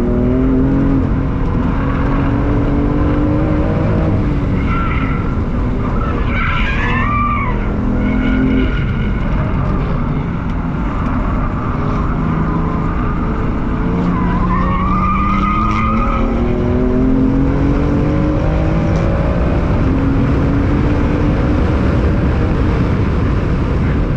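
BMW M4's twin-turbo straight-six heard from inside the cabin under hard track driving, revs climbing through the gears and dropping back again and again. The tyres squeal through corners twice, about five seconds in and again around the middle.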